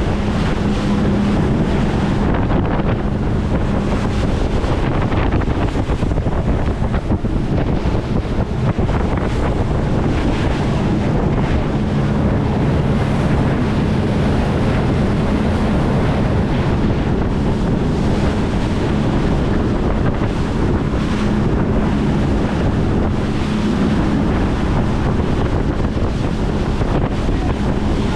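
Speedboat running at speed: a steady engine drone under heavy wind buffeting on the microphone and rushing water.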